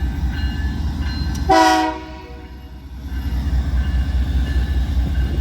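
A train rumbling past, a steady low pulsing rumble, with a short loud horn blast about a second and a half in; the rumble briefly dips right after the blast and then returns.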